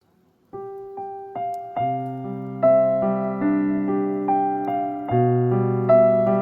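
Background music: a gentle solo piano playing single notes and chords, each note struck and left to ring, starting about half a second in.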